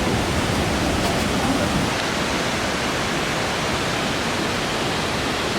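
Steady rush of falling water from a waterfall in a rock gorge.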